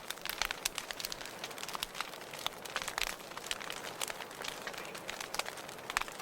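Wood fire in a fireplace crackling, with frequent irregular sharp pops and snaps over a steady hiss.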